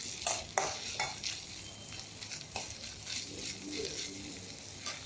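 Crushed ginger and garlic frying in hot oil in a pan: a steady sizzle, with a few spoon strokes against the pan in the first second or so.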